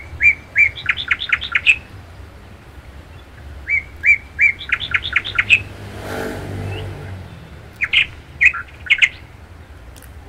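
A songbird singing the same short phrase three times, a few seconds apart: a couple of clear notes, then a quick run of sharp notes ending in a flourish. A brief low hum rises and fades about six seconds in.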